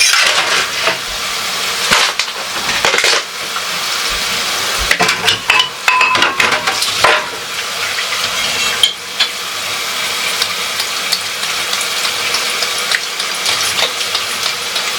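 Water running steadily from a kitchen tap, filling the sink for dishes to soak, with dishes and cutlery clinking and knocking now and then.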